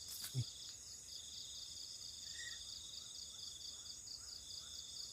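Night insect chorus: crickets trilling steadily in several high-pitched layers. A single thump comes about half a second in.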